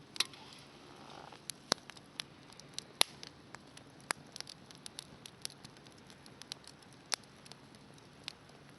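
Wood fire burning in a handmade fire pit, crackling with irregular sharp pops and snaps, several a second at times, over a faint steady hiss.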